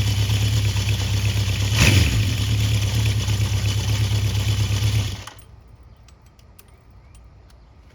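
1972 Honda CB750's air-cooled inline-four running steadily during its cold-start warm-up, with a brief louder burst about two seconds in. The engine is shut off a little after five seconds, and a few faint clicks follow.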